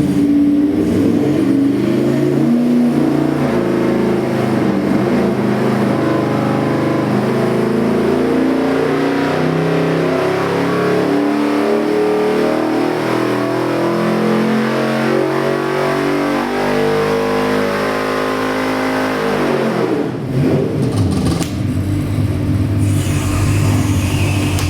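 Carbureted Ford 347 stroker small-block V8 running on an engine dyno, its revs climbing steadily through a long pull. About 19 to 20 seconds in the revs drop quickly and it settles back to a steady idle.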